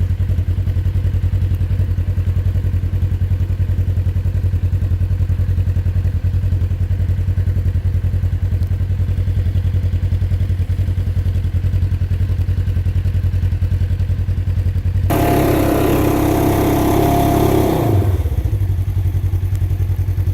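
Polaris RZR side-by-side engine idling steadily throughout. About 15 s in, the electric winch runs with a louder whirring for about three seconds, then its pitch falls away and it stops: the winch quitting and no longer pulling.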